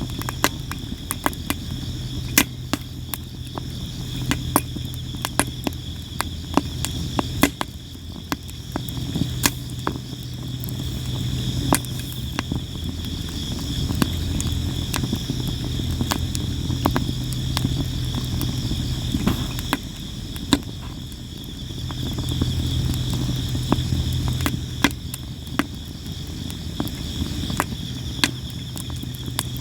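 Sawara cypress wood burning in a campfire, crackling and popping constantly with sharp snaps several times a second. Crickets chirp steadily behind it.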